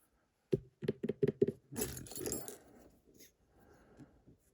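Small metal lock parts clicking and tapping as the driver pins are taken out of the disassembled lock: a quick run of about six sharp clicks, then a short scraping rattle.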